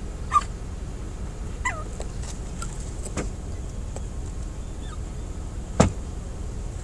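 Seagulls giving short cries that slide down in pitch, a few times, over a steady low rumble. A single sharp knock about six seconds in is the loudest sound.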